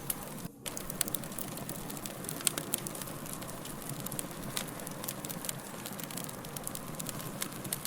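Fire crackling: a steady hiss with frequent, irregular sharp pops and snaps, and a brief drop-out about half a second in.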